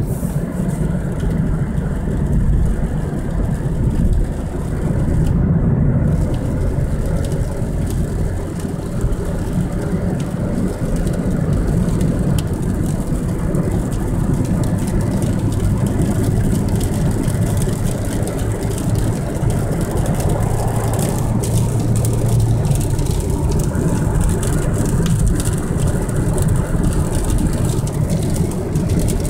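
Ford Mondeo Mk3's 1.8 Duratec HE petrol four-cylinder engine, heard from inside the cabin, pulling under steady acceleration over road and tyre noise. The revs climb to about 3000 rpm, then settle near 2500 rpm after a shift into a higher gear. Through the long gears of a diesel MTX75 five-speed gearbox, the engine turns at low revs for its road speed.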